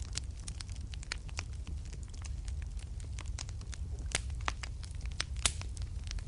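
Wood fire in a fireplace crackling: irregular sharp pops and snaps over a steady low rumble of the flames, with two louder pops about four and five and a half seconds in.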